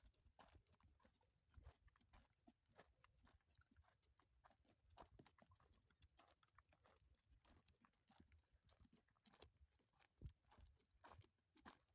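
Faint, irregular clicking and knocking of a donkey's hooves as it walks.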